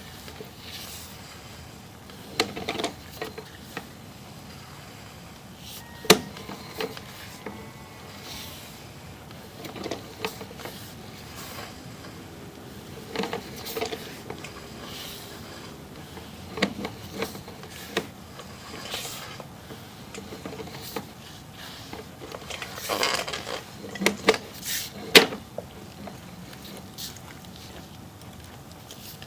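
Sewer inspection camera and its push cable being handled: irregular clicks, knocks and scrapes over a steady hiss, with one sharp click about six seconds in and a cluster of knocks near the end.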